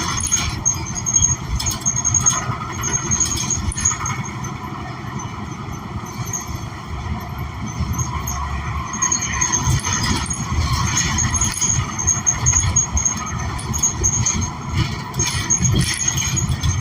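Cabin noise of a New Flyer XN40 city bus on the move: the Cummins Westport ISL G natural-gas engine and road rumble, with scattered rattles and a thin high squeal that comes and goes.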